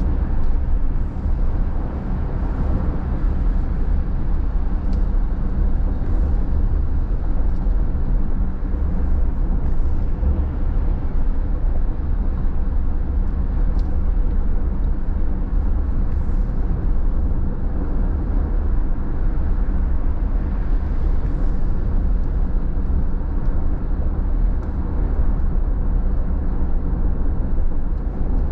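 Car driving on a rain-wet road: a steady low rumble of engine and road noise with tyre hiss from the wet pavement, unchanging throughout.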